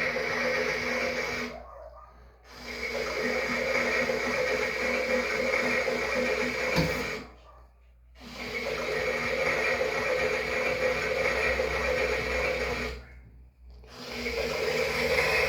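Toy washing machine's small electric drum motor running with a steady whir, stopping for about a second three times, roughly every five and a half seconds, as in the stop-start turning of a wash cycle.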